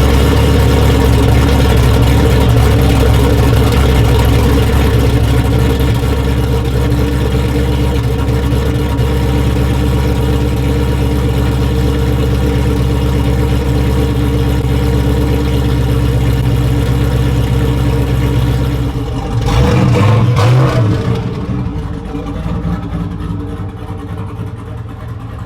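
Car engine idling steadily while warming up just after a cold start. About nineteen seconds in it surges briefly, then settles to a quieter idle, warmed up.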